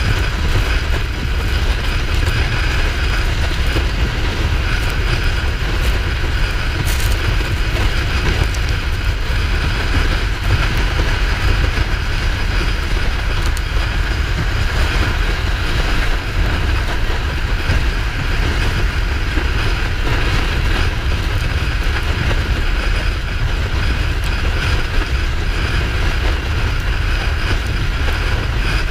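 Kawasaki Ninja 400 parallel-twin running steadily while being ridden, with heavy wind rush over the microphone.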